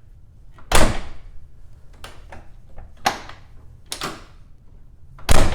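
Corvette C3 door being shut twice, each closing a sharp thud, with lighter latch and handle clicks between. The door still bounces back a little instead of latching cleanly on the striker post.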